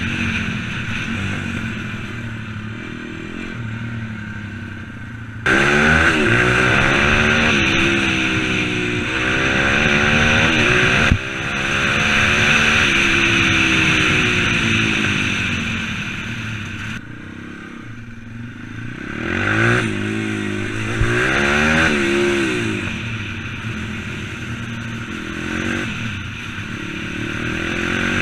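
An M2R 140cc pit bike's single-cylinder four-stroke engine being ridden, revving up and dropping back again and again as the pitch rises and falls. Its loudness jumps suddenly about five seconds in, and it eases off to a lower, quieter run a little past the middle.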